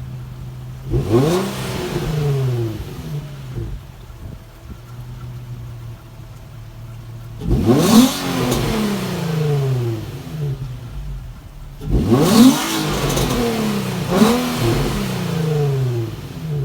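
Nissan 350Z's 3.5-litre V6 idling and blipped four times, each rev climbing sharply and falling back to idle, the last two close together. It is being revved to check a noise the owner suspects is an exhaust leak or a screech from the pulley side when he revs.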